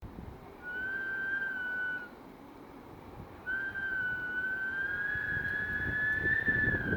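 Wind whistling through the gap of an intercom-locked door: a short high whistle, a pause, then a longer whistle from about halfway through that slowly rises in pitch, over a low rumble of wind.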